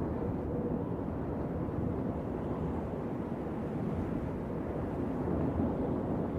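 Wind blowing steadily, a low, even noise with little high hiss.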